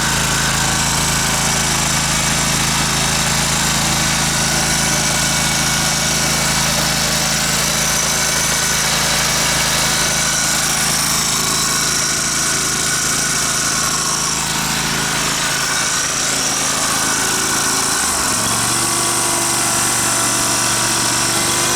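Kohler engine on a Dixon zero-turn mower running steadily, its note changing about 18 seconds in.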